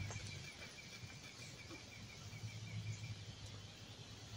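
A bird giving a long, fast trill of evenly repeated high notes that stops about three seconds in, over a low steady rumble.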